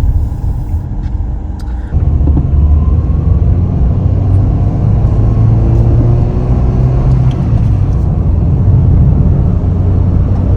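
A road vehicle under way: a steady low engine and road rumble that gets louder about two seconds in, with a faint tone that rises a little as it gathers speed.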